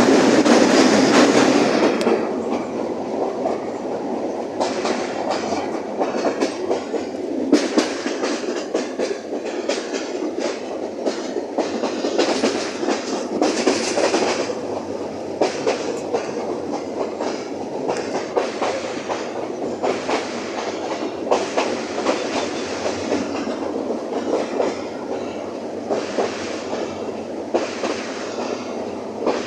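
Train running along the track: a steady rumble of the cars with the wheels clicking irregularly over rail joints, a little louder for the first two seconds.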